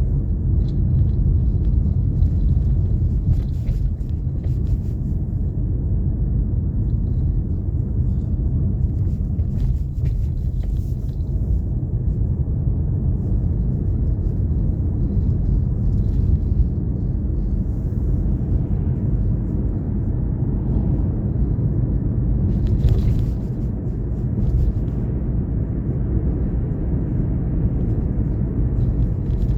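Steady low rumble of a car being driven: road and engine noise, with a few faint ticks now and then.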